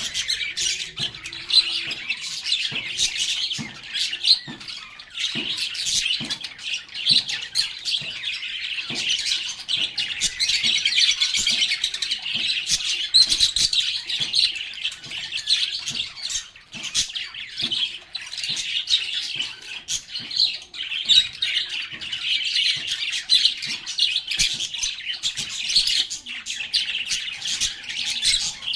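A group of lovebirds chattering and chirping continuously, a dense, high-pitched mix of many short sharp calls and squawks without pause.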